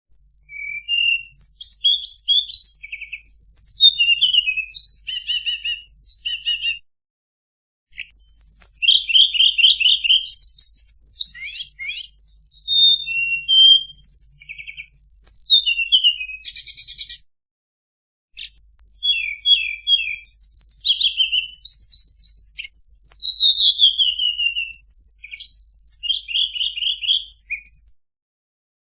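A tledekan, an Indonesian blue flycatcher, singing a fast, varied song of high whistled notes, slurs and trills. The song breaks off for about a second twice, about seven and about seventeen seconds in.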